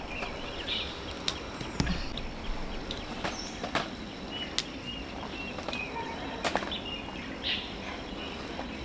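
Outdoor ambience with a steady hiss, scattered sharp clicks and rustles, and brief high bird chirps now and then.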